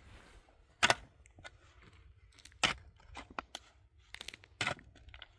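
A run of sharp, irregular knocks and cracks, about six or seven strikes of hard material, the loudest about a second in, near the middle and near the end.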